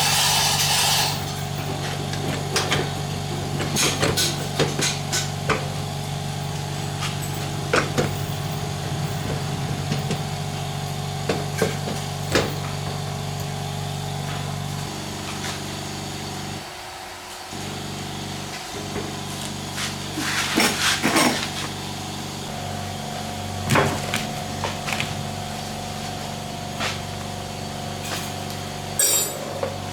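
Scattered sharp knocks and taps of tool work, over a steady droning hum that shifts in pitch twice and dips briefly about halfway through.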